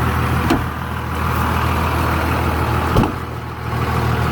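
5.9 Cummins inline-six turbo diesel idling steadily through a 5-inch straight-piped exhaust, with two brief knocks about half a second and three seconds in.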